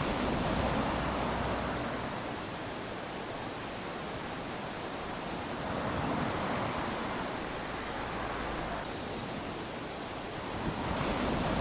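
Small waves lapping onto a sandy shore: a steady wash of surf that swells three times, near the start, about halfway through and again near the end.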